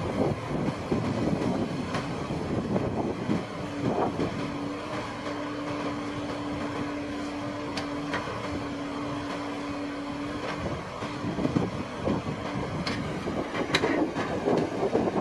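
A machine running steadily, with a held hum and scattered clicks and knocks.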